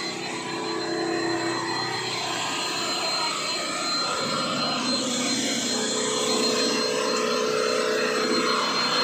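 Diesel truck engine running steadily, with a thin high-pitched whine over it.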